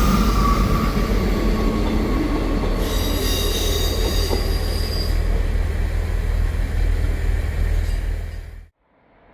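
Class 159 diesel multiple unit moving off, with a steady low engine rumble and wheel noise; high wheel squeal rings out from about three to five seconds in. The sound cuts off abruptly near the end.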